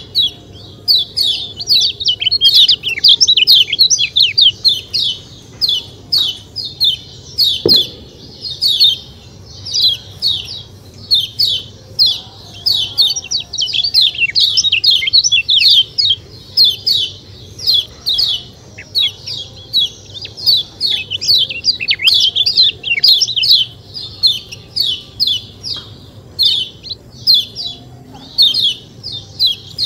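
Kecial kuning, a white-eye, chirping in a rapid, unbroken chatter of quick, high, downward-slurred notes, several a second.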